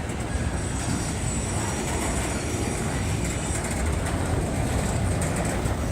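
CSX auto rack cars of a freight train rolling past, a steady noise of steel wheels running on the rails.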